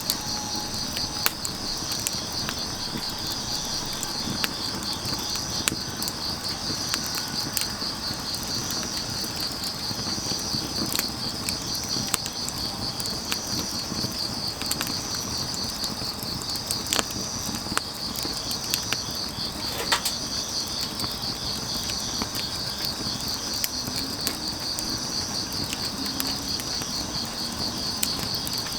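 Grass insects chirping in a steady high, pulsing trill. Scattered sharp crackles and pops come from burning firewood.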